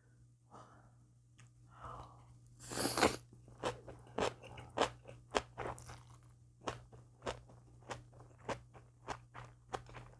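Close-miked mukbang chewing of crunchy food: a louder noisy bite about three seconds in, then steady crunching, one crunch about every half second.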